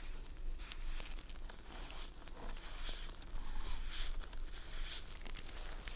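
Pad of skincare exfoliant wiped over skin close to the microphone: soft, irregular brushing and crinkling strokes with a few small clicks.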